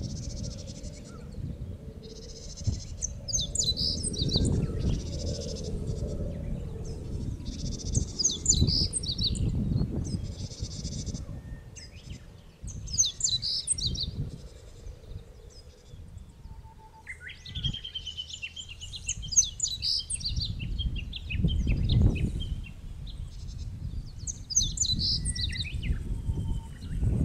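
Small songbirds singing short, high phrases every couple of seconds, with a longer trilling song about two-thirds of the way in. Underneath, a low uneven rumble of wind on the microphone.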